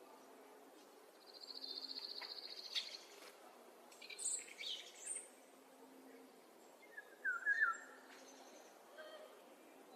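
Wild songbirds singing. A fast, high, even trill lasts about two seconds, then a few quick sweeping chirps follow, and a short burst of lower warbling notes near the middle is the loudest call.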